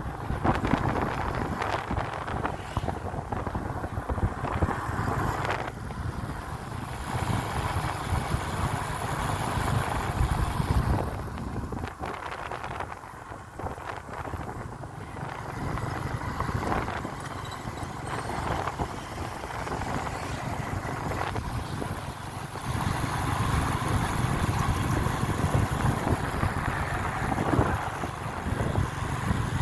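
Wind buffeting the microphone in uneven gusts, over the steady noise of a moving vehicle. It drops off for a few seconds near the middle and picks up again later.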